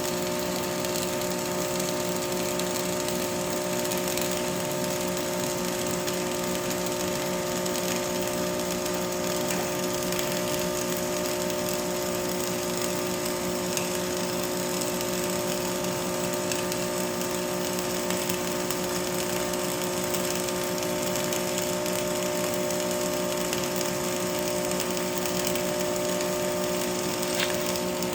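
Welding: a continuous crackle runs over a steady hum without a break.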